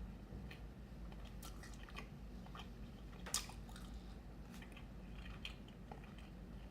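A person chewing food: soft, scattered mouth clicks and smacks, with one sharper click about three and a half seconds in.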